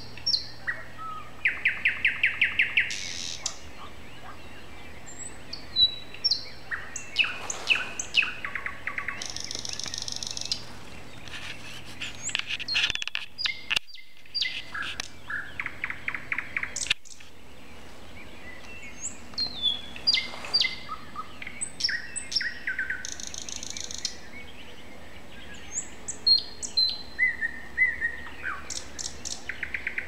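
Songbirds singing in the dark: a string of varied phrases of whistles, short chirps and fast rattling trills, each a second or two long with short gaps between them.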